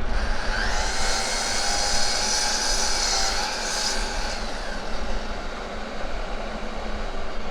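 Aircraft passing overhead: a steady jet-like rush that swells about half a second in and fades after about four seconds, with faint tones that bend slowly in pitch as it goes by.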